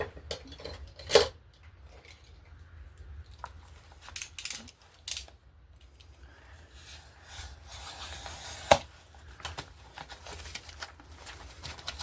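Paper being handled and torn as a page is pulled out of an almanac: rustling and ripping, with two sharp clicks, one about a second in and one near the end.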